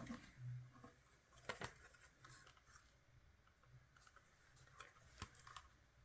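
Near silence with a few faint sharp clicks and light handling noises, twice close together about a second and a half in and once more near the end.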